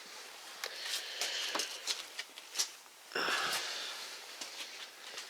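Faint scattered clicks and light knocks over a low hiss, with a short breathy rush about three seconds in.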